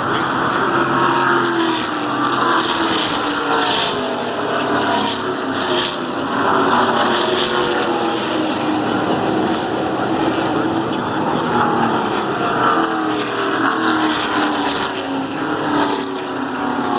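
A pack of NASCAR Truck Series race trucks' V8 engines running past on the track, several engine notes overlapping and sliding up and down in pitch as the trucks go by.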